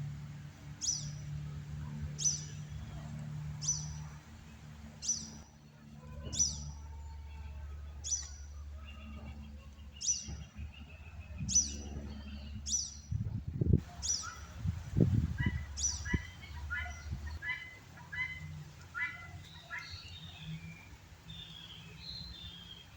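A bird repeating a short, sharp, high call that sweeps down in pitch, about once every second and a half, stopping about two-thirds of the way through. After that come scattered shorter chirps from other birds. Under the calls run a steady low hum and a few low rumbles.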